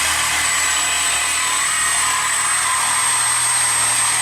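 Handheld power tool cutting through an old steel exhaust pipe, its motor running at a steady, high-pitched whine under load.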